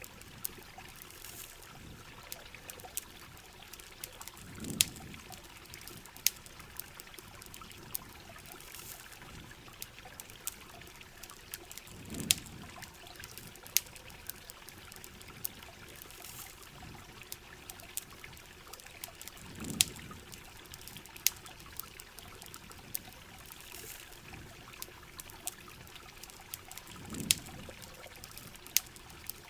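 Steady rain and running water, with sharp crackles or drips scattered irregularly through it. A soft low whoosh swells and fades about every seven and a half seconds.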